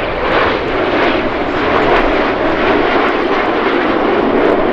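Jet engine noise from the Red Arrows' BAE Hawk T1 jets flying their display: a loud, steady rushing noise that swells slightly as the aircraft pass.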